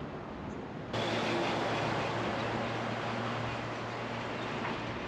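Road traffic noise: a steady rush with a low engine hum, starting suddenly about a second in and easing off slowly.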